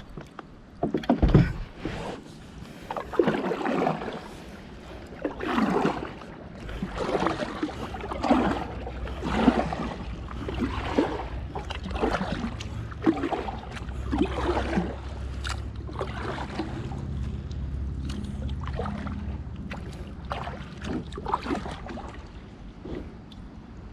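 Kayak paddle strokes dipping and pulling through the water, a swishing splash roughly once a second, easing off in the second half while a low steady rumble comes in.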